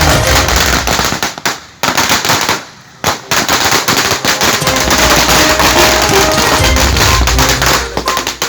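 A string of firecrackers going off in a rapid, dense crackle, breaking off briefly twice, with music playing underneath.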